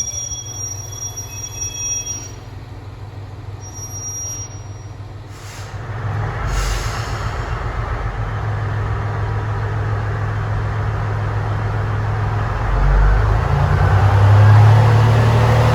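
Thin high squeal of train wheels on the rails that fades out within the first two seconds. From about six seconds in, a diesel railcar's engine drone builds and grows louder, strongest near the end.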